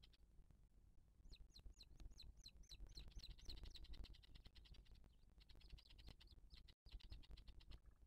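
Faint, high-pitched bird calls. A run of about a dozen short downslurred whistles at roughly four a second is followed, a few seconds later, by a fast chattering trill. A low rumble runs underneath.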